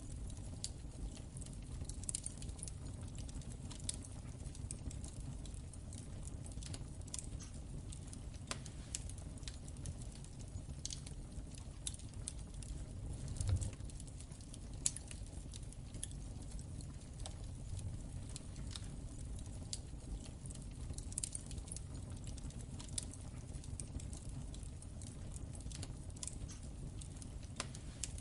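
Fireplace wood fire crackling: irregular sharp snaps and pops over a steady low rumble of the flames, with a heavier pop and thump about halfway through.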